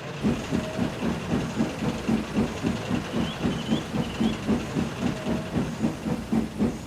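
Steam locomotive chuffing at a steady pace as it pulls away with its trucks, about four puffs a second.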